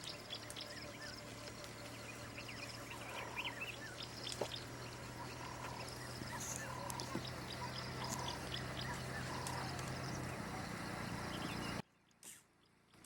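Wild birds calling, with scattered chirps and a short repeated call note, over a steady low hum that stops about ten seconds in. Shortly after, the sound cuts out abruptly.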